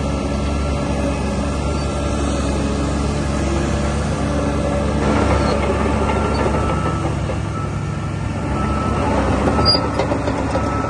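DH17 C2 LGP bulldozer's diesel engine running steadily, with short high-pitched squeaks coming in from about halfway through.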